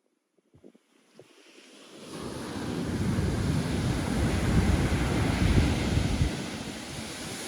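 Pacific Ocean surf: a wave rushing in, building from about a second in, loudest in the middle and easing near the end, with wind buffeting the microphone.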